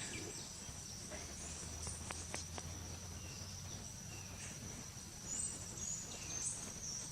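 Faint outdoor field-recording ambience: a steady high-pitched insect drone, with a few soft bird chirps and faint clicks over a low background hum.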